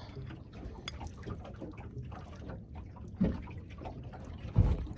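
Water lapping and trickling against a small aluminium boat's hull, with scattered small clicks. Two brief louder knocks come about three and four and a half seconds in.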